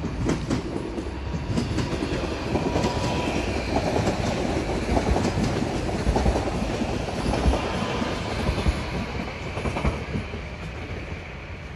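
A passenger train passing close by, its wheels clicking over rail joints, with a steady rumble. The sound eases off near the end as the train moves away.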